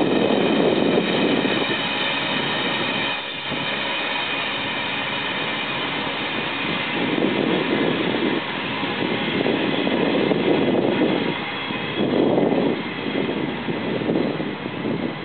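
Freight train's rail cars and caboose rolling past, a steady rumble of wheels on the rails, with wind gusting on the microphone in uneven swells.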